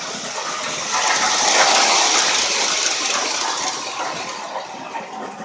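Lionel R16 model subway train running, with a rushing hiss that swells about a second in and eases off over the next few seconds.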